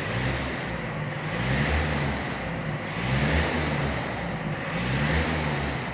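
VW Passat 2.0 TDI four-cylinder turbodiesel heard from the exhaust end, revved up from idle and let fall back several times in a row. The engine sounds healthy, with no hissing, howling or grinding.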